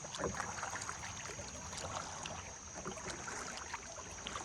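Water lapping and dripping around a paddled kayak, with scattered small splashes and light knocks from the paddle.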